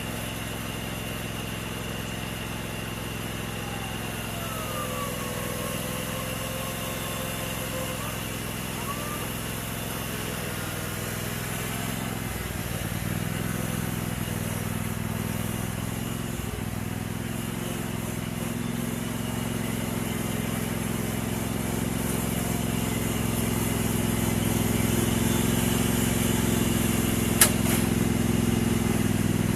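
Riding lawn mower's engine running steadily, growing somewhat louder in the second half. A single sharp click sounds near the end.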